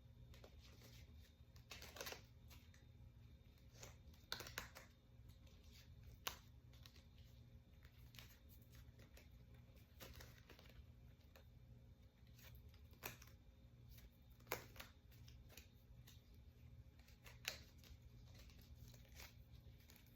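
Near silence with a low room hum, broken by scattered soft clicks and rustles of a deck of paper cards being handled and drawn, about half a dozen sharper snaps spread irregularly through it.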